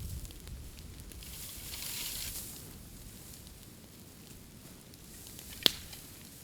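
Freshly cut green bamboo burning in an open bonfire: a hiss swells and fades about two seconds in, then one sharp, loud pop near the end.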